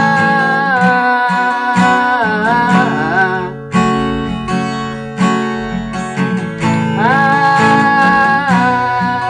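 Acoustic guitar strummed with a capo on the second fret, playing the song's bridge on the open chords G major, A sus2 and E minor. A voice sings long held notes over it, about a second in and again about seven seconds in.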